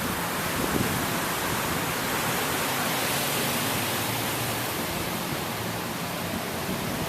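Heavy rain falling in a thunderstorm, a steady even hiss.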